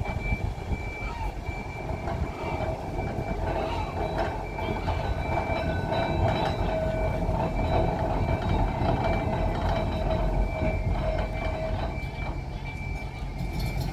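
Tram moving slowly on depot track: a steady rumble of wheels and running gear with a steady whine that stops near the end, over a thin high tone.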